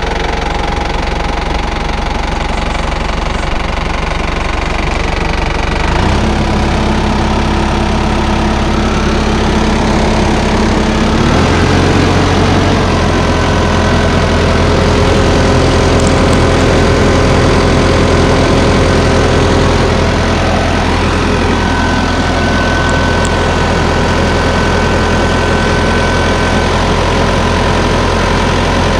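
New Holland TN95DA tractor's diesel engine running just after start-up. Its speed steps up twice, about six seconds in and again about five seconds later, then holds steady.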